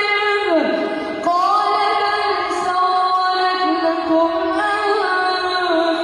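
A single high voice chanting long, held melodic notes that slide between pitches.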